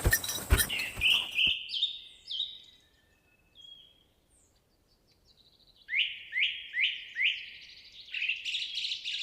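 A bird singing a series of quick, repeated upward-sweeping whistled notes, with a run of four evenly spaced notes and a busier flurry near the end. A few sharp knocks or steps are heard in the first second or so.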